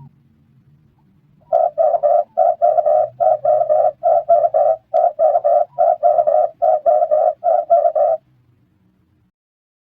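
Red turtle dove cooing: a fast run of short, repeated coos, about four a second, starting about a second and a half in and stopping near the end.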